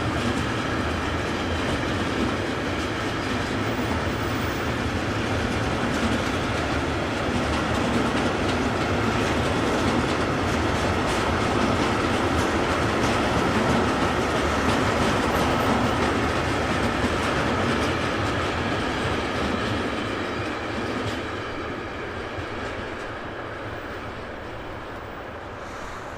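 A train passing on the line, wheels clicking over the rail joints; it grows louder to about the middle and fades away over the last few seconds.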